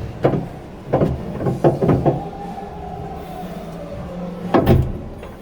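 Knocks and clanks of hands-on work during a boat engine removal: several sharp knocks in the first two seconds and a louder clank near the end. Underneath are a steady low hum and a faint tone that slides down in pitch.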